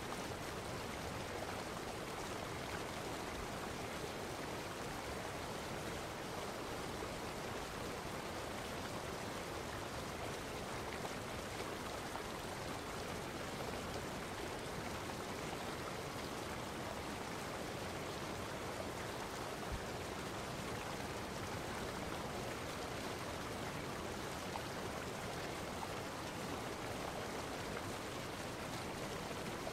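Steady rushing noise of running water, even and unchanging.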